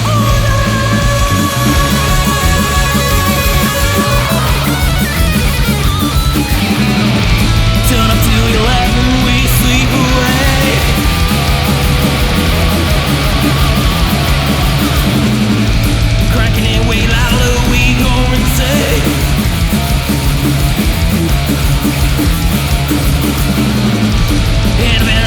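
Heavy metal band recording: distorted electric guitars, bass and drums playing continuously, with a sung vocal line in places.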